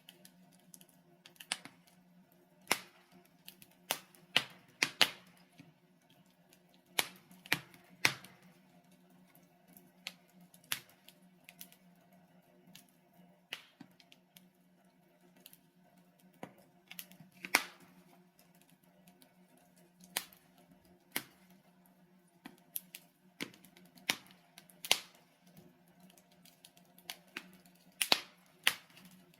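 Logs burning in a fireplace, crackling with irregular sharp pops, a few of them loud, over a steady low hum.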